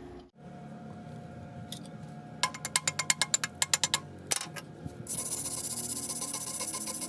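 Stick welding: a burst of rapid sharp clicks a couple of seconds in, then, about five seconds in, the steady crackling hiss of the welding arc running.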